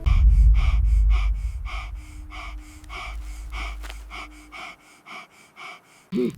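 A person panting hard, about three quick breaths a second, over a deep rumble that starts suddenly and loud and fades away over about five seconds. A short voiced grunt comes near the end.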